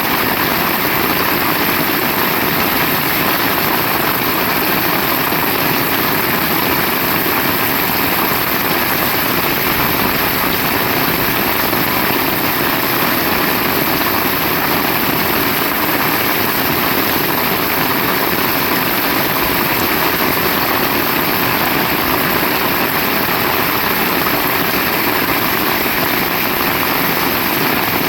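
Heavy rain pouring steadily, an even loud hiss with no let-up.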